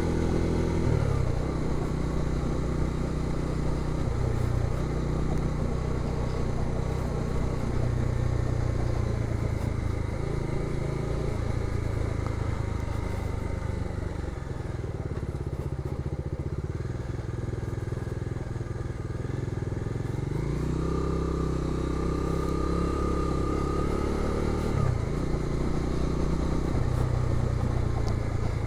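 Bajaj Dominar 250 single-cylinder motorcycle engine running under way. Its pitch rises and falls several times as engine speed changes.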